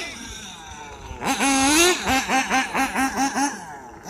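A person laughing: a long rising 'ha' about a second in, then a quick run of short bursts, about five a second, that fade away.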